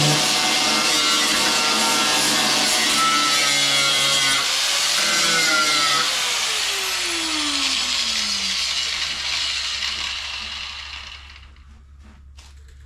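Power grinder working the welded steel of a car's rear body panel, running hard under load. About six seconds in it is released and winds down, with a falling whine that fades out over the next few seconds.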